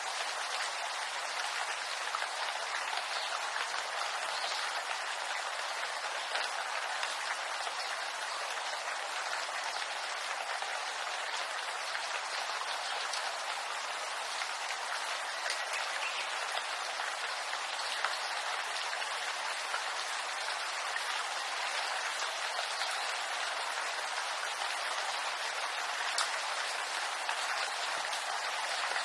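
Steady rain falling in a bamboo grove: an even hiss of drops on leaves, with now and then a louder single drop tick.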